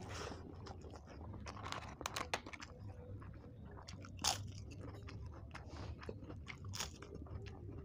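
Close-miked chewing of a mouthful of rice with fried papad, wet chewing broken by sharp crunches of the crisp papad. The loudest crunches come about two and four seconds in.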